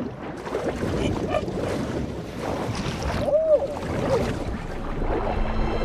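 Rushing, churning water noise of an underwater scene, with a short rising-and-falling tone about three and a half seconds in.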